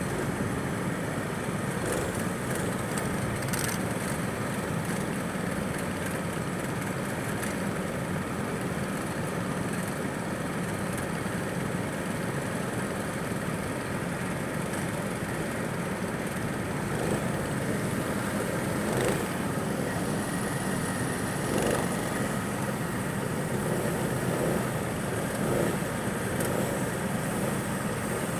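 Go-kart engine running with a steady drone.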